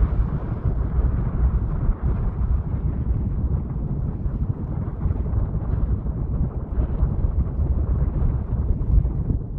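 Wind buffeting the microphone: a steady low rumble that surges and falls.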